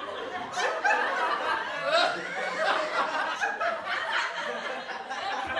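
Several people laughing and chuckling together, overlapping voices with no clear words.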